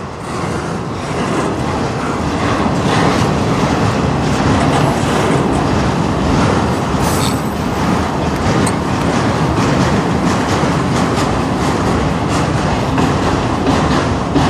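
Freight train of autorack cars rolling past close by: a steady, loud rumble of steel wheels on rail, with a quick run of clicks as the wheels pass over rail joints.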